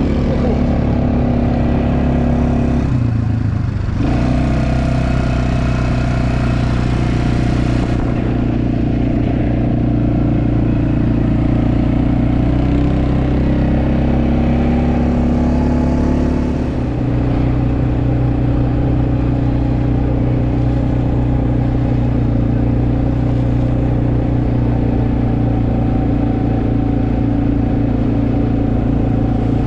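Quad bike engine running steadily as the bike rides along, with a brief drop in throttle about three seconds in and a change in engine pitch a little past the middle.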